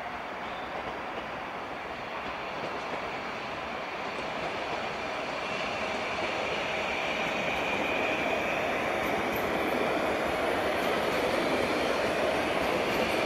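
Electric multiple unit train passing at low speed: a steady rumble of wheels on rail that grows louder as it comes by, with a faint high-pitched whine or squeal joining about halfway through.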